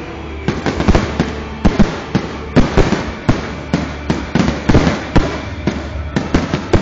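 Fireworks display: aerial shells bursting in a rapid, irregular string of sharp bangs, about four a second, starting about half a second in.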